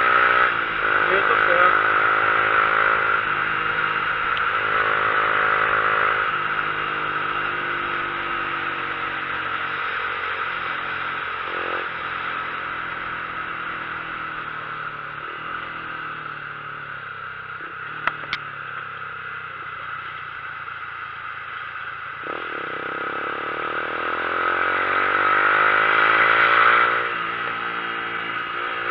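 Motorcycle engine running while climbing a mountain road, under a steady rush of wind. The engine note eases off about six seconds in and stays lower and quieter through the middle, then rises again near the end before dropping back. A single sharp click comes about eighteen seconds in.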